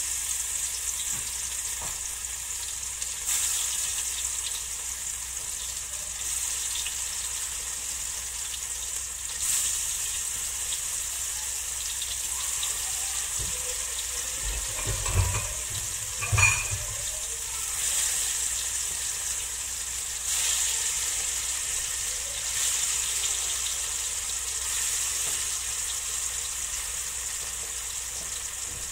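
Tofu pieces sizzling as they fry in hot olive oil in a wok, the sizzle swelling each time more pieces are added. Two short knocks sound about halfway through.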